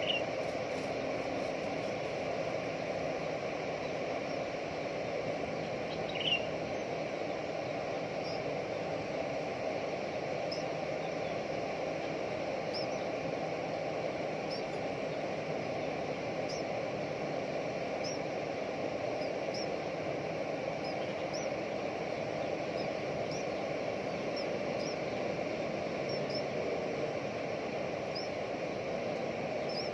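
Steady outdoor background noise with short, high bird chirps repeating every second or two, and two louder falling call notes, one at the very start and one about six seconds in.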